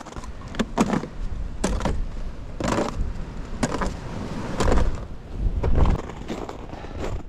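Footsteps crunching in snow, about one step a second, with gusts of wind buffeting the microphone, strongest about four to six seconds in.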